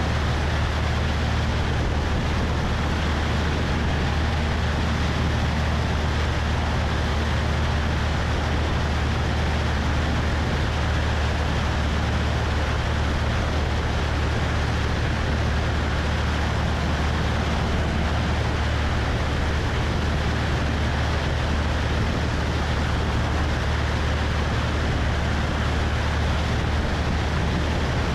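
Cessna 172 engine and propeller droning steadily in flight, with wind rushing over the wing-mounted microphone.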